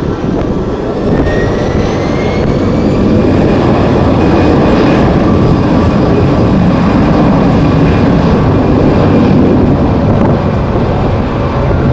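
Jet airliner engines running loudly, growing louder over the first few seconds and then holding, with a whine rising in pitch early on, over a low rumble of strong wind on the microphone.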